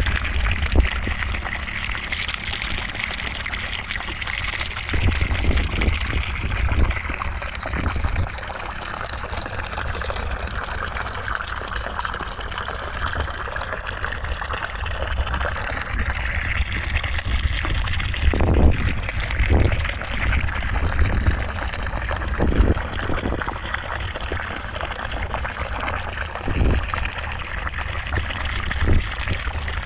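Steady rushing white noise with a deep rumble underneath, and several brief low thumps in the second half.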